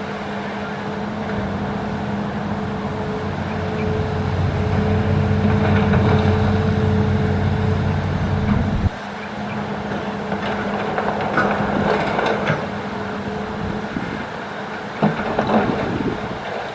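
Hitachi excavator's diesel engine running steadily under load, growing louder toward the middle, then easing off suddenly about halfway through. It is followed by a few sharp metallic knocks and scrapes, in two clusters near the end.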